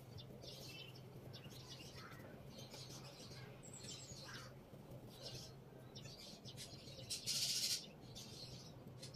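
Faint bird chirps over a steady low hum, with a short hiss about seven seconds in.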